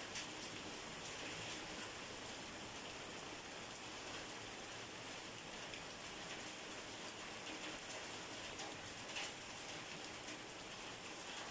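Steady rain falling on a surface, an even hiss with scattered drips and a few sharper taps.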